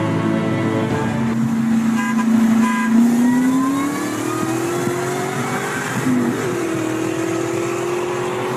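Car engines at full throttle in a highway roll race beside a 2003–04 SVT Mustang Cobra. The note holds steady, then climbs from about three seconds in. It breaks briefly for a gear change about six seconds in, then climbs again with a rising whine over it.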